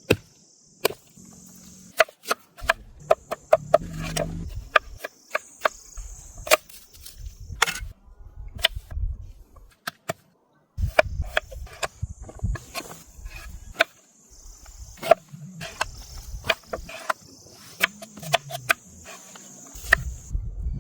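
Many sharp, irregular clicks and knocks, some in quick clusters, over a high, steady insect-like buzz that comes and goes.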